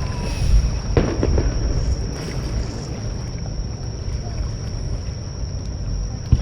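Fireworks bursting: a crack about a second in and a sharp bang near the end, over a steady low rumble of surf and wind at the water's edge.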